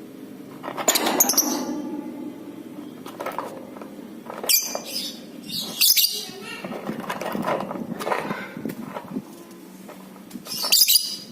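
Lovebirds chirping and chattering in sharp, high-pitched squeaky bursts, the loudest about a second in, around the middle, and near the end.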